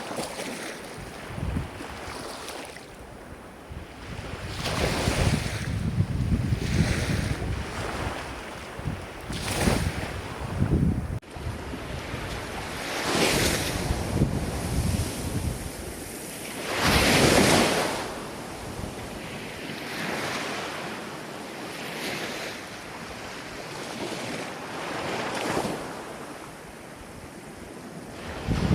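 Ocean waves washing in, swelling and fading every few seconds, the largest surge about seventeen seconds in. Wind rumbles on the microphone for the first part and drops away abruptly about eleven seconds in.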